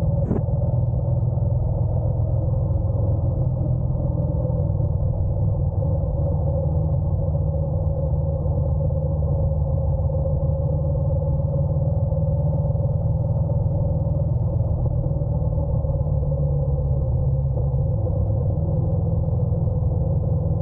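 Honda NC750X DCT motorcycle running steadily: a constant low rumble from its parallel-twin engine with a steady hum above it, with no revving or change in pitch.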